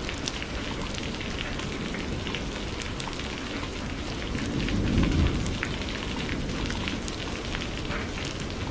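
Steady rain falling, with individual drops ticking on a surface. A low rumble of thunder swells up about halfway through.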